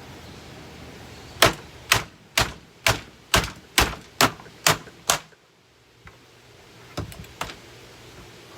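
A hammer striking a Hoover vacuum cleaner in a quick run of nine hard blows, about two a second, then two lighter knocks a couple of seconds later.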